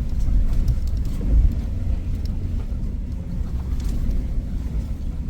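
Suzuki Jimny crawling over a rocky trail in four-wheel-drive low range: a steady low engine and road rumble, with a few light knocks.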